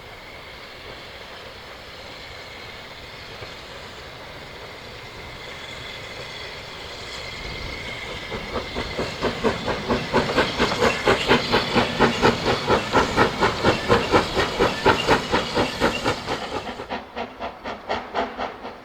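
Heritage steam train passing: a steady hiss builds, then loud rhythmic beats at about three a second swell up and fade away near the end.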